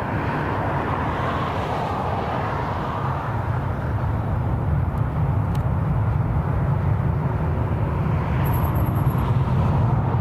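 Jet engine noise of an Air Canada Boeing 787-9 after it has passed overhead on landing approach: a steady rumbling roar, its high hiss fading while the low rumble grows stronger after a few seconds.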